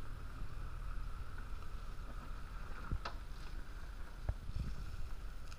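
Off-road SUV's engine running at low revs as it crawls through a sandy gully, a steady low rumble with two sharp knocks about three and four seconds in.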